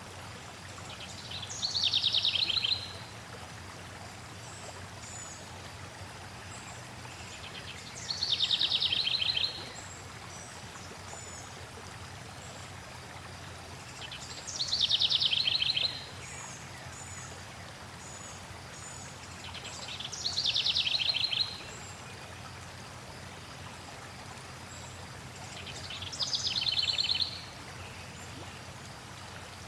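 A songbird repeating one short song five times, about every six seconds: each is a trill of about a second and a half that falls from high and ends in a fast run of notes. Fainter high chirps from other birds come between, over a steady hiss of flowing water.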